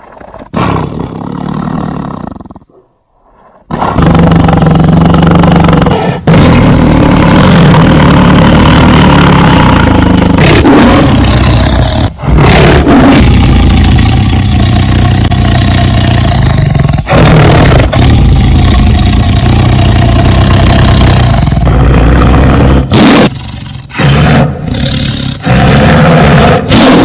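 Tiger roaring and growling, loud. After a brief pause about three seconds in, it goes on almost without break, with short gaps, and ends in several shorter roars.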